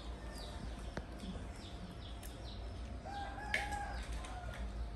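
Background bird calls: a run of short, high chirps falling in pitch in the first half, then a longer, stepped call about three seconds in, with a single click during it.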